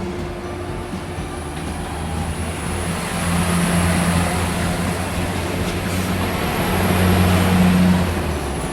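Diesel locomotive sound effect: the engine runs with a steady low drone that swells twice, about three seconds in and again near the end, under a thin high whine.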